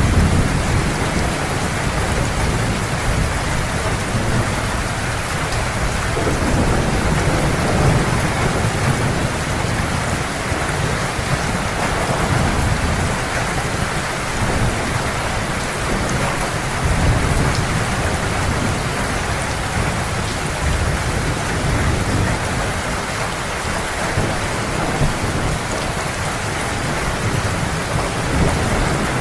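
Heavy rain falling steadily, with a low thunder rumble that swells and fades underneath.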